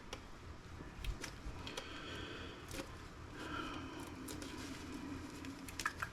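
Faint handling noises from a laptop being taken apart: a few light clicks and soft rubbing of parts, with a small cluster of clicks near the end.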